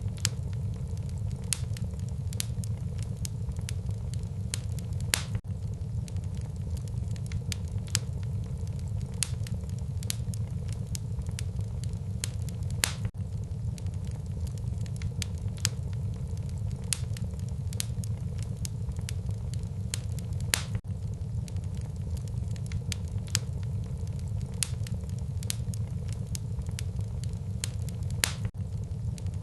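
Wood fire burning in a fireplace: a steady low rumble of flames under frequent sharp crackles and pops, with a few louder snaps now and then.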